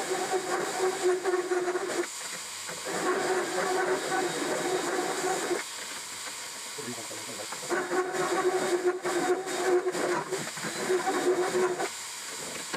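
Power drill running in three bursts of a few seconds each, the last the longest, a steady whine with a hissy edge, as it drills out the bolt hole in a steel leaf spring to take longer bolts.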